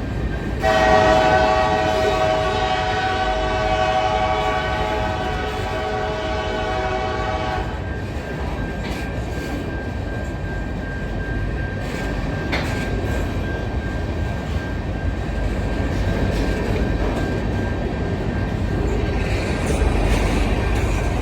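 Canadian National SD70M-2 diesel locomotive sounding its air horn in one long chord lasting about seven seconds. Then the freight train rumbles past, with wheels clicking over the rails and a thin steady whine.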